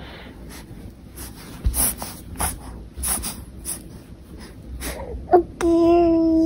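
Snuffly, wheezing breaths and small irregular clicks from a four-month-old baby feeding. About a second before the end, a steady held tone with a few overtones comes in, louder than the rest.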